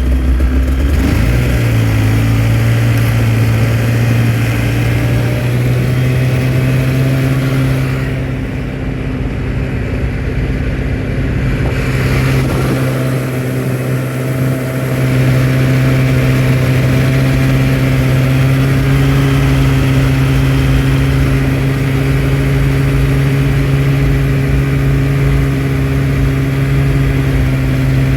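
Engine of the vehicle towing a trail-grooming drag over snow, speeding up about a second in and then running at a steady pace. It eases off slightly midway before settling back to the same steady drone.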